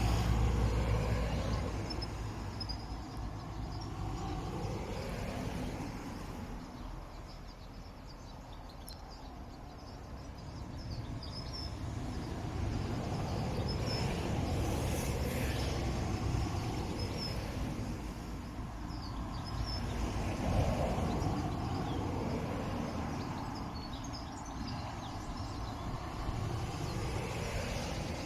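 Bombardier Dash 8-Q400's twin Pratt & Whitney PW150A turboprop engines running at takeoff power, a low drone that swells and fades, loudest about two-thirds of the way in. Birds chirp faintly over it.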